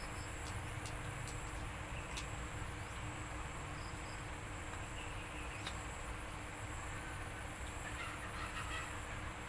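Steady background noise with a faint hum, and a few soft clicks scattered through it.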